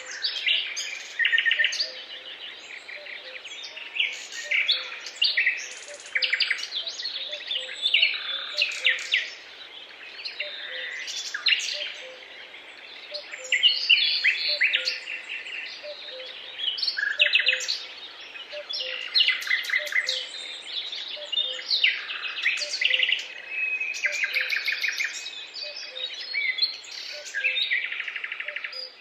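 Dense forest dawn-chorus-like birdsong: many songbirds chirping and trilling at once, rapid overlapping phrases with no pause.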